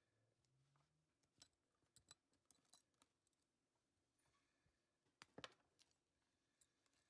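Near silence with faint, scattered clicks and light taps from small hard objects being handled, with a short cluster of them about five seconds in.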